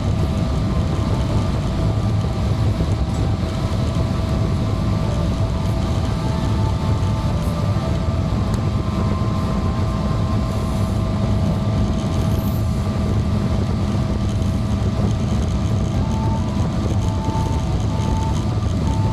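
Steady in-flight cabin drone of a Boeing 777-300ER, airflow and GE90 engine noise, with a constant low rumble and faint steady whines above it.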